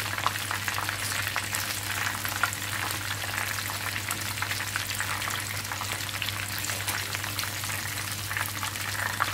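Egg-and-flour-coated chicken drumsticks frying in hot oil in a pan: a steady crackling sizzle full of tiny pops, over a steady low hum.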